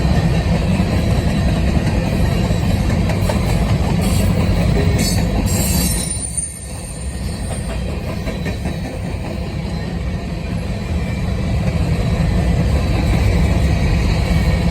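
Freight train cars rolling past on the rails, a steady rumble that dips briefly about six seconds in.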